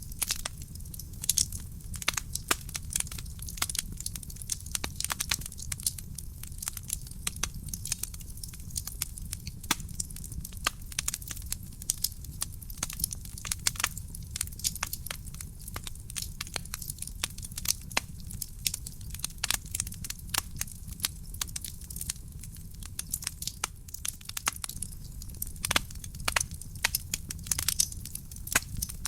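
Real wood fire burning in a fireplace: dense, irregular crackling and popping of the burning logs over a low, steady rumble of the flames.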